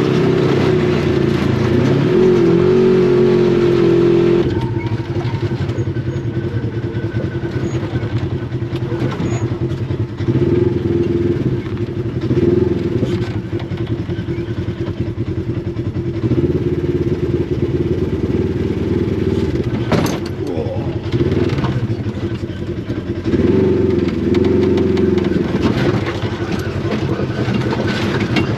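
Polaris RZR side-by-side's engine running under way on a trail, its pitch rising and falling as the throttle is worked. A sharp knock cuts through it about two-thirds of the way in.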